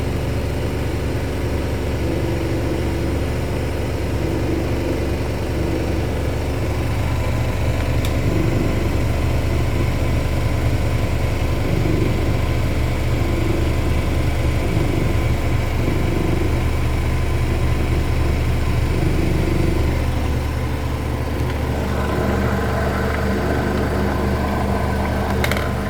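Two Miele front-loading washing machines spinning together at high speed in their final spin, a steady loud drone and hum from the drums and motors.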